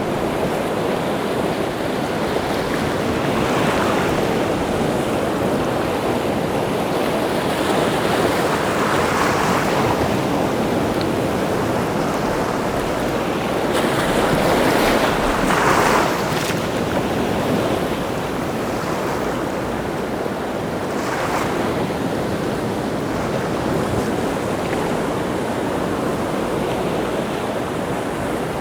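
Rough sea surf breaking on the shore: a continuous rushing wash that swells with each incoming wave, the biggest surge about halfway through.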